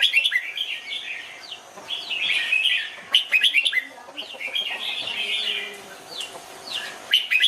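Red-whiskered bulbul singing: short bursts of quick, warbling, sliding whistled phrases, repeated every second or two with brief pauses between.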